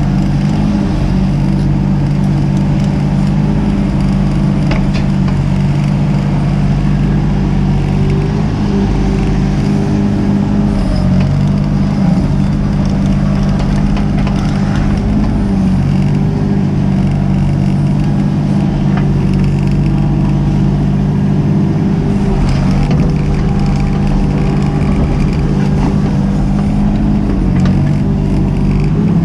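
Mini excavator's diesel engine running steadily under work, its note dipping and recovering now and then as the hydraulics take load, with scattered knocks and scrapes from the digging.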